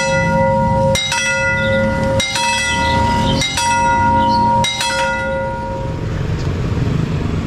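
Railway level-crossing warning bell ringing, one bright stroke a little more than once a second, each ringing on until the next. The strokes stop near the end and the ring dies away.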